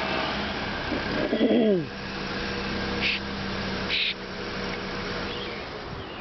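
A car engine running with a steady hum. About a second in, a short sound with a falling pitch cuts in, and there are two brief hisses near the middle.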